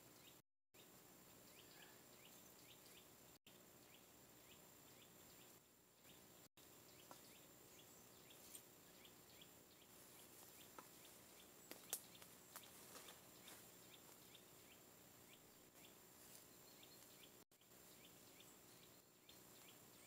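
Near silence: faint outdoor ambience with small birds chirping in many quick, short repeated notes, and a few light clicks about midway.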